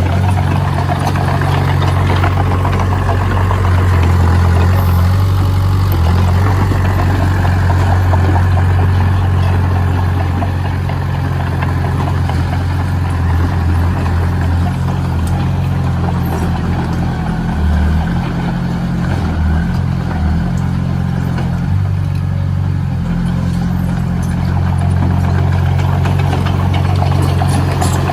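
Heavy construction machine's diesel engine running steadily, its engine speed shifting slightly now and then.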